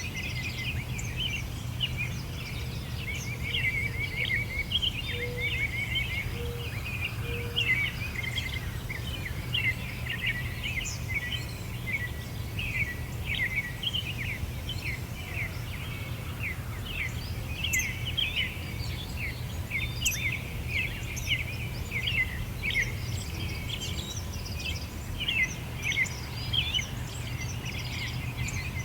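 Many small birds chirping and twittering in a continuous, overlapping chorus of short, high notes. A steady low rumble lies underneath.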